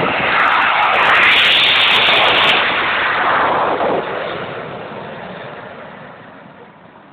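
Snowbirds' Canadair CT-114 Tutor jets flying past: a loud jet roar that peaks about two seconds in and then fades steadily away.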